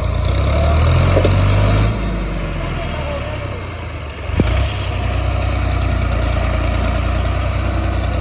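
Tractor diesel engine running steadily, louder for the first two seconds and then settling back; a single sharp knock about four and a half seconds in.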